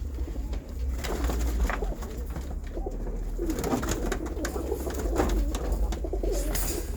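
Domestic pigeons cooing, several warbling calls overlapping, with scattered short clicks and knocks.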